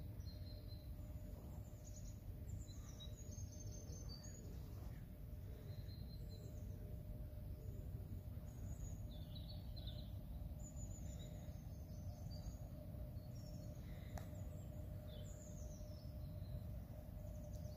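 Small birds chirping and calling on and off, in short high notes, over a steady low background rumble.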